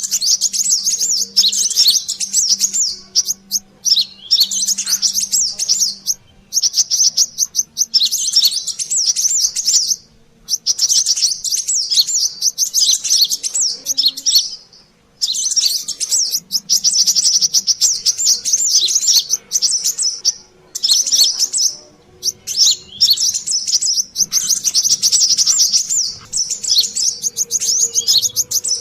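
Brown-throated sunbird (kolibri kelapa) lure call: rapid, high, busy chirping in bursts of a few seconds each, with short breaks between.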